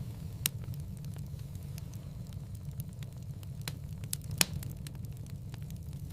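Wood fire crackling in a fireplace: scattered sharp pops and snaps, the loudest about four and a half seconds in, over a low steady rumble.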